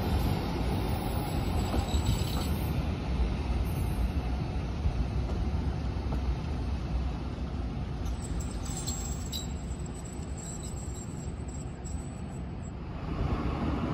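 A train running, a steady low rumble that grows louder again near the end.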